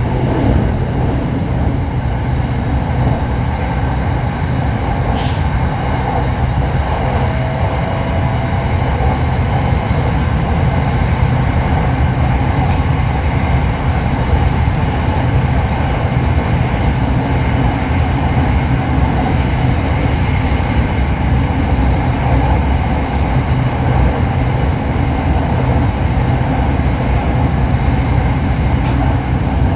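Steady rumble inside the cabin of an SRT Red Line electric commuter train running along its track.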